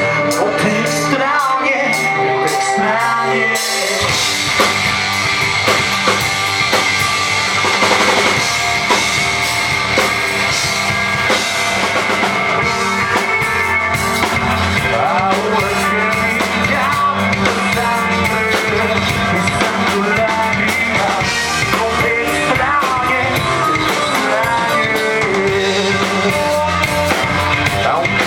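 Rock band playing live: the intro of a rock-metal song with electric guitars, bass and drum kit, the full band coming in with bass and drums about four seconds in.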